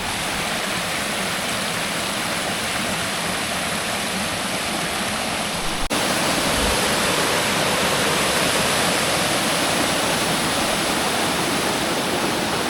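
Waterfall rushing: a steady hiss of falling water, broken by a brief dropout about six seconds in, after which it is slightly louder.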